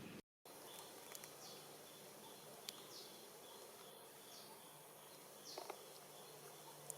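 Faint outdoor ambience: a steady high insect drone with short, high, falling chirps repeating every second or so and a few faint clicks.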